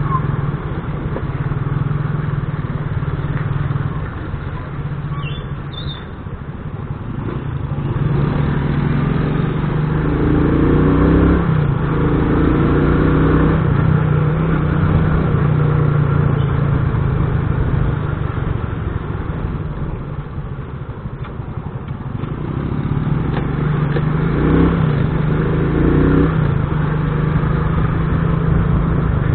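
Motorcycle engine running while under way, easing off twice and then picking up again with a rise in pitch.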